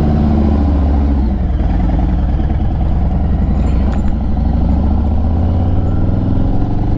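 Motorcycle engine pulling away and accelerating, its pitch rising, dropping at a gear change about a second and a half in, then climbing again.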